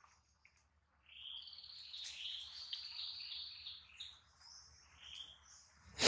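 A bird chirping: a run of quick, high notes starting about a second in and lasting a few seconds, with a shorter call near the end.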